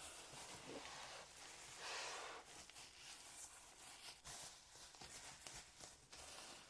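Faint rustling and handling noises from hands at work, with a louder rustle about two seconds in and a few light clicks.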